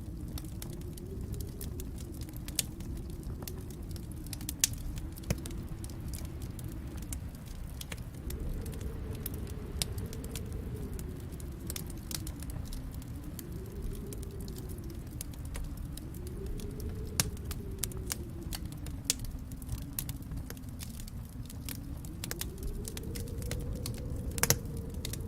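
Wood fire crackling in a fireplace: frequent sharp pops and snaps, one louder pop near the end, over a low rumble that swells and fades every few seconds.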